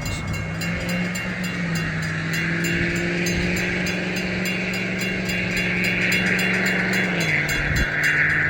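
Florida East Coast Railway freight train passing over a grade crossing. Its diesel locomotive runs with a steady low drone that dips slightly near the end. The steel wheels click in an even rhythm over the small rail-joint gaps either side of the crossing, under a wheel-on-rail hiss that grows louder.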